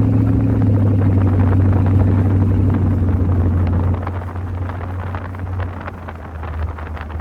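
Car engine running under way with a steady low drone, easing off about four seconds in, where it goes quieter and lower.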